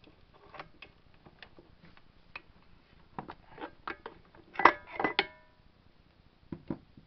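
Metal parts of a disassembled Briggs & Stratton small engine clinking and tapping as they are handled: scattered light clicks, then a few louder ringing metal knocks about two-thirds of the way through.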